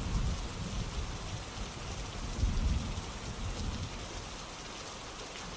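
Steady rainfall, a hiss of drops with a low rumble that swells slightly about halfway through.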